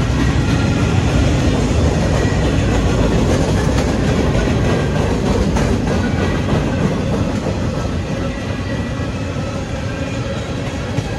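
Freight cars of a passing CSX freight train rolling through a grade crossing: steady, loud wheel-on-rail noise that eases slightly in the second half.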